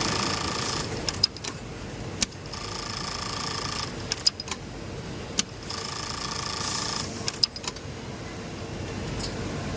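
Industrial sewing machine stitching in three short runs of about a second each, with sharp clicks in the pauses between runs.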